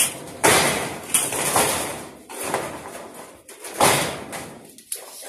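Thin corrugated steel shed panels clattering and rattling as they are handled and shifted, in about half a dozen loud clanks, each trailing off in a metallic rattle.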